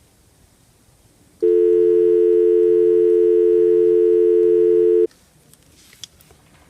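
Telephone dial tone: a steady two-note hum that starts about a second and a half in and cuts off sharply some three and a half seconds later.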